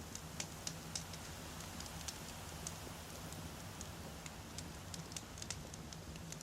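Wood campfire burning: a steady low rumble of flames with irregular sharp crackles and pops from the burning logs, several a second.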